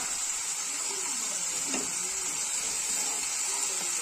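Fresh fenugreek leaves sizzling in hot oil in a pan, a steady, even hiss as the leaves wilt.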